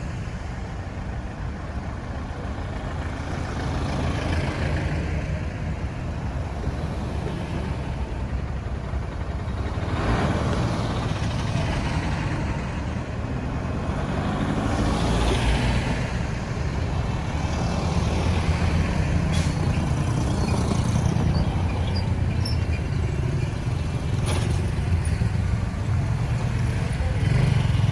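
Road traffic noise: a steady low engine and tyre rumble, with vehicles passing by about 4, 10 and 15 seconds in.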